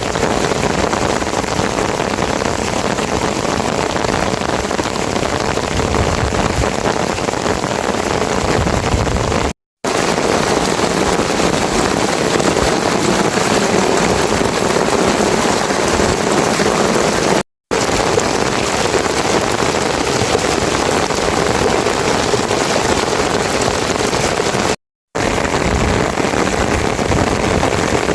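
Heavy rain falling steadily as a dense, even hiss, cutting out to silence for a moment three times.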